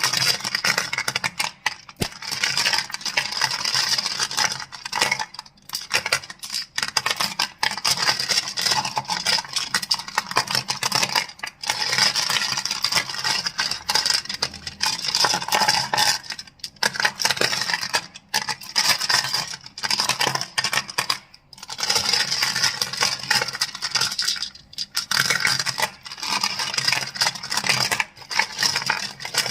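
Crystals clicking and clacking against each other in dense, rapid runs, broken by short pauses every few seconds.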